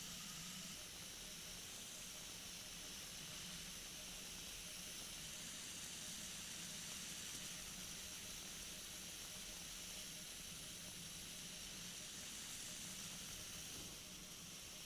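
Steady faint hiss with a low, even drone beneath it: the in-flight audio of a flexwing microlight trike in cruise, engine and airflow heard muffled through the radio and intercom feed.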